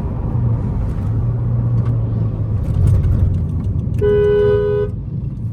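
Car engine and road noise from a moving car, with a steady low hum. About four seconds in, a two-note car horn sounds once for just under a second.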